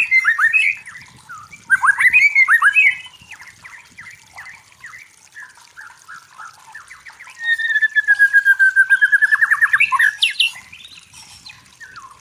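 A songbird singing loud phrases of sweet, varied notes: a short burst at the start, another about two seconds in, and a longer phrase later on with a slowly falling whistle run into quick repeated notes, with softer chirping in between.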